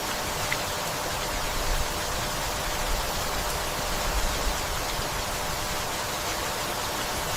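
Gentle steady rainfall, an even hiss with a few soft low rumbles swelling briefly through it.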